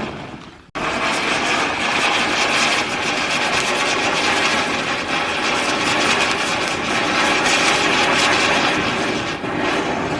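Spinner firework (ground wheel cracker) burning with a loud, steady hiss. The sound cuts out abruptly less than a second in, then starts up again at full strength.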